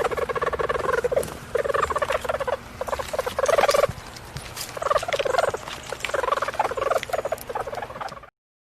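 A bird calling in a series of rapid, rattling bursts, each under a second long, that cut off suddenly near the end.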